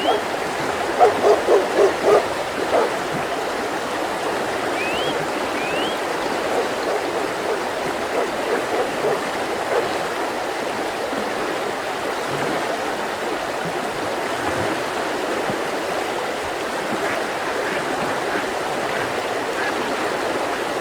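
Mountain river flowing, a steady rush of water. A bird gives short rising whistled notes once at the start and twice around five to six seconds in. A quick run of about five low pulses sounds one to two seconds in.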